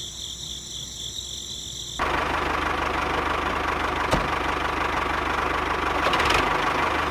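Engine idling steadily with a fast, even beat, starting abruptly about two seconds in. Before it there is a quieter stretch with a steady high whine.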